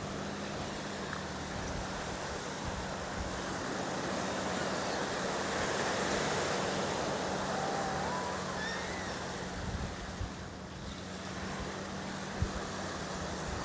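Small surf washing on a sandy beach, with wind on the microphone; the wash swells midway and then eases off. A steady low hum runs underneath.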